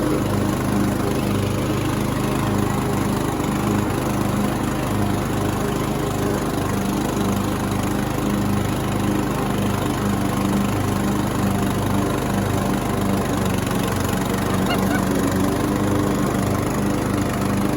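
Riding lawn mower engine running steadily under load while cutting wet grass, its note pulsing slightly; the deck keeps getting stopped up with the wet clippings.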